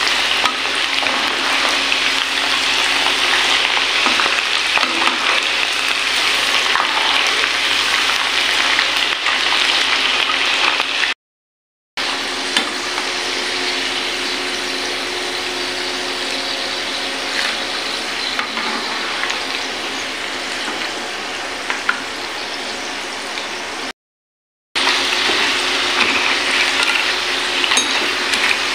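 Cassava sticks deep-frying in hot oil in a pan: a steady, loud sizzle with a few sharp clicks. The sound cuts out briefly twice, about a third of the way in and again near the end.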